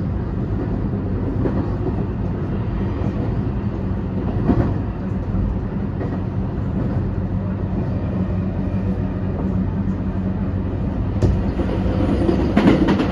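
Running noise inside a motor car of a JR West 223-2000 series electric train cruising at speed: wheels on rail with a steady low hum from the Hitachi IGBT inverter-driven traction motors, and a single knock from the track about four seconds in. Near the end a train passing the other way on the next track adds a sudden loud rush.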